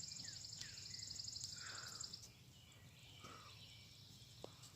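Faint outdoor sounds: a high, rapidly pulsing trill that stops about two seconds in, with short falling bird chirps and a few brief calls throughout.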